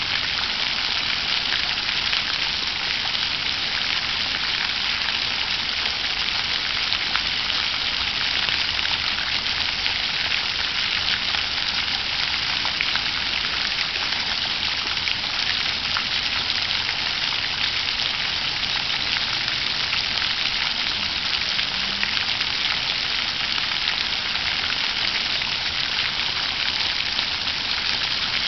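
Water fountain running, its falling water splashing steadily without a break.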